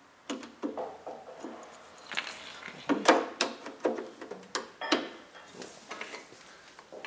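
Irregular clicks and knocks of tools and parts being handled, a quick run of them between about two and five seconds in, the loudest just after three seconds.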